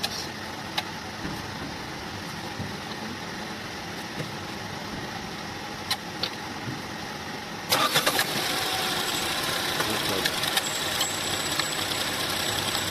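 Tata Nexon's three-cylinder petrol engine being cranked on the starter about eight seconds in, then running, after a steady background hum with a few clicks. The cylinder 2 ignition coil is off on a test spark plug during the cranking, and the mechanic finds that coil shorted.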